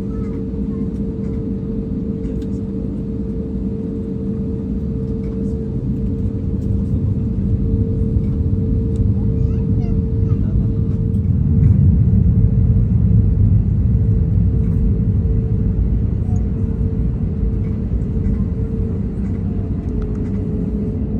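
Cabin noise inside an Airbus A321neo airliner: a steady engine hum over a low rumble that swells about halfway through, then eases slightly.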